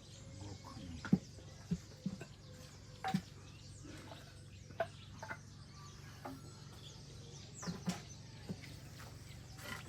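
Scattered knocks and taps of carpentry work on wood, irregularly spaced about a second or two apart, over a low steady hum.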